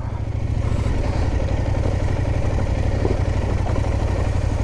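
Parallel-twin adventure motorcycle engine running steadily at low revs on a slow off-road lane.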